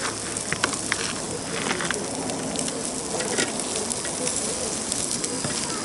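Cooking fire crackling, a steady sizzling hiss with scattered sharp crackles.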